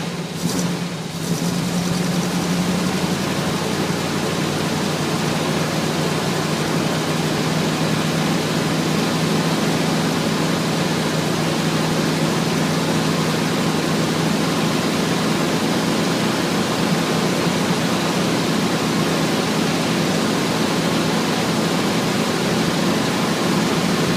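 Chevy Suburban engine idling steadily on a cold start, with a couple of short clicks in the first second.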